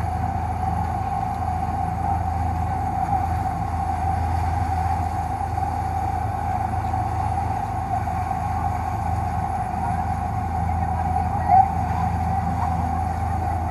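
Dive boat's engine running steadily while underway: a constant low hum with a steady higher-pitched whine above it. A brief louder blip comes about eleven and a half seconds in.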